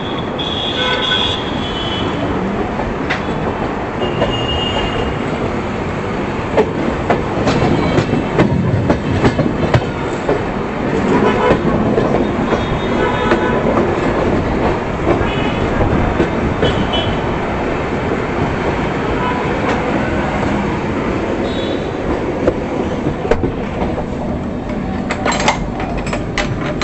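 Express passenger train running at speed, a steady rumble with the wheels clacking rhythmically over rail joints.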